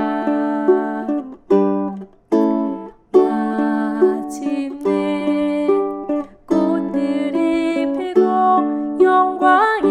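Ukulele playing chord accompaniment, plucked and strummed chords ringing on with a few short breaks between phrases.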